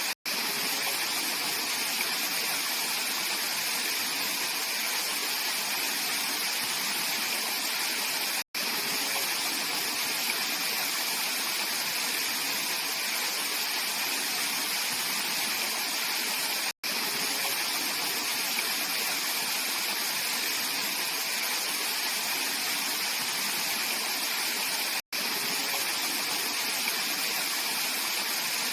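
Mountain stream rushing over rocks: a steady, full water noise, cut by a brief silent gap about every eight seconds.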